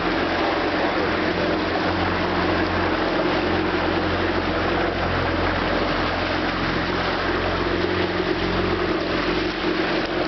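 A boat's engine running at a steady speed under a constant rush of wind and water.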